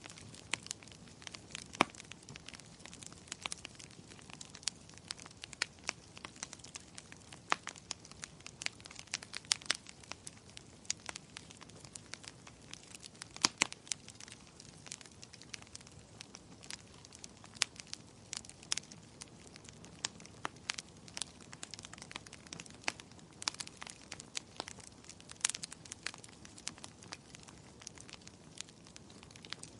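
Wood fire in a fireplace crackling steadily, with irregular sharp pops and snaps over a soft low hiss of burning.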